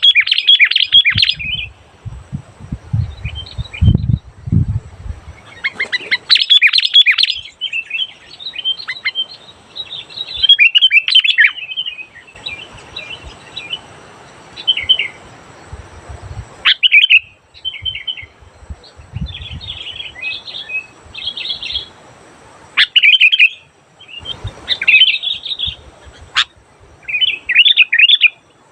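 Sooty-headed bulbul (kutilang) singing loud, clear bursts of quick bubbly chirping phrases with short pauses between them. A few low thumps come early on, a couple of seconds in.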